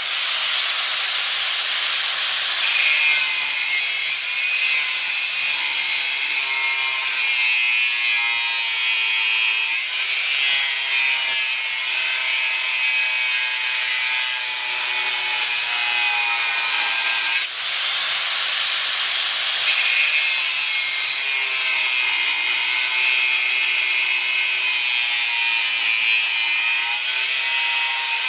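Angle grinder with an abrasive wheel working steel plate: a continuous harsh, high grinding noise, with the motor's note wavering as the wheel is pressed into the metal.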